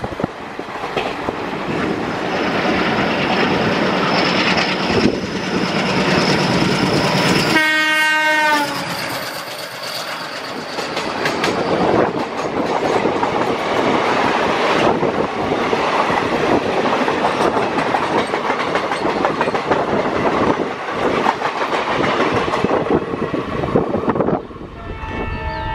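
Indian Railways diesel express running at speed, heard from an open coach doorway: wheels clattering over the rails, with rushing air. The locomotive horn blows for about a second around eight seconds in, and a horn sounds again near the end.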